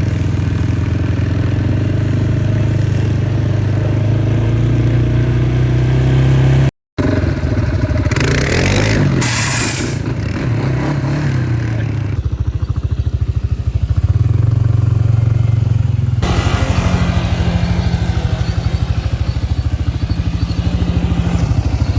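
Utility ATV engines running and revving on a dirt track, the pitch rising and falling with the throttle. The sound changes abruptly several times, with a brief dropout about seven seconds in and a rushing noise around eight to ten seconds in.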